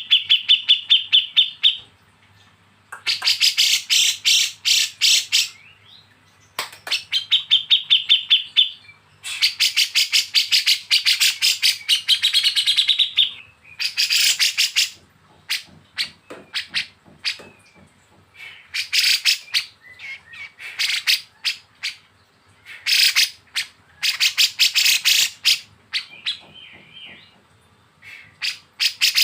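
Kapas tembak and cucak jenggot bulbuls giving rapid, harsh 'besetan' chatter calls. The calls come in bursts of fast, evenly repeated notes a couple of seconds long, with short pauses between them. A few passages are a quick even trill.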